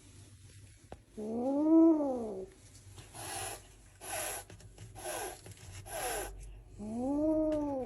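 Angry cat giving two long yowls, each rising then falling in pitch, with four short hisses in between.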